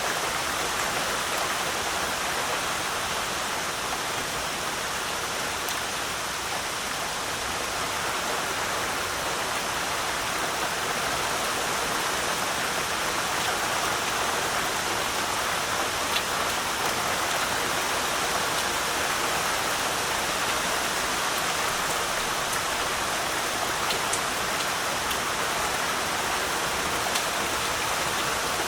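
Heavy rain falling steadily, a constant hiss with faint scattered drop ticks.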